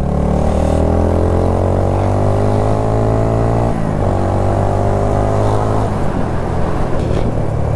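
Motorcycle engine accelerating under way: the pitch climbs steadily, drops at a gear change about four seconds in, then climbs again before levelling off.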